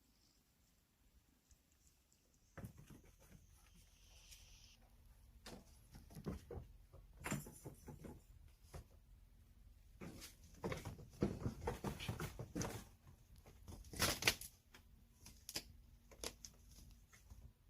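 Kittens scuffling about: a run of irregular light taps, scratches and rustles that starts a couple of seconds in and grows busier, with a louder clatter about two-thirds of the way through.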